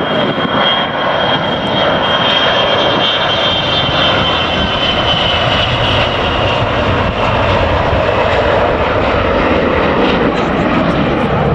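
Jet airliner engines running loud, with a high whine that slowly falls in pitch and fades over the first half.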